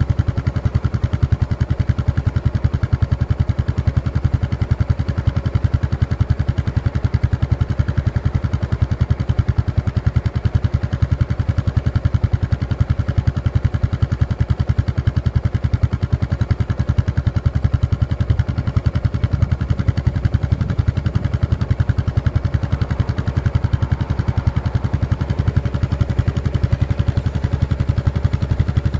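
Exhaust of a Yamaha SR400 FI single-cylinder four-stroke through an aftermarket muffler, running steadily with an even, rapid train of exhaust pulses.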